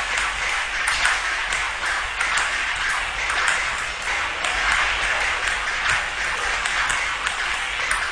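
Table-tennis rally: a quick run of sharp clicks as the celluloid ball strikes the paddles and table several times a second, over a steady hiss.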